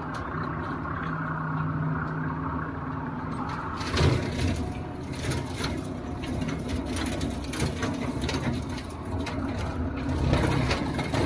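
Compact tractor's diesel engine running steadily, with a scattered run of sharp knocks and clatters starting about four seconds in.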